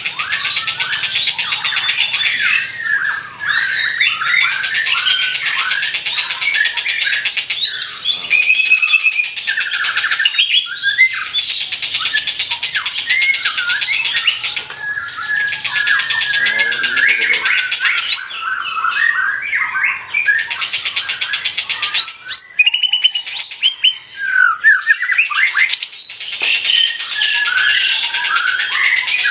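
Murai songbird singing nonstop: a loud, fast, varied stream of whistles, chirps and harsh squawking notes.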